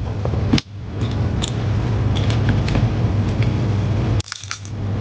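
Scattered small clicks and taps of parts and tools being handled on an opened laptop, over a steady low hum. The sound cuts out abruptly twice.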